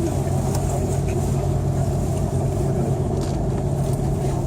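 Steady drone of an Airbus A330-300 heard inside the passenger cabin, with a low hum that holds one pitch throughout.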